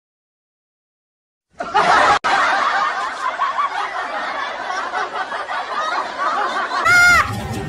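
Silence for about a second and a half, then a group of people laughing loudly, like a canned laugh track. Near the end comes a short high note that rises and falls.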